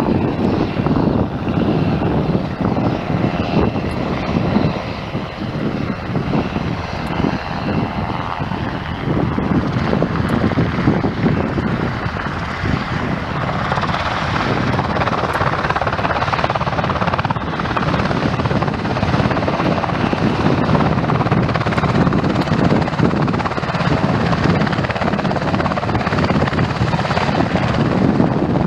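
Sikorsky S-70i Black Hawk helicopter running loud and steady: a fast rotor beat over the rush of its turbine engines.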